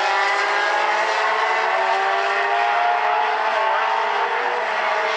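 A pack of mini stock race cars with their engines running hard together at racing speed. Several engine tones overlap, each gently rising and falling.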